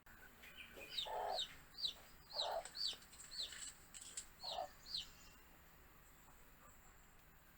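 Baby chicks chirping: about nine short, high chirps, each sliding down in pitch, mixed with three lower calls, dying away about five seconds in.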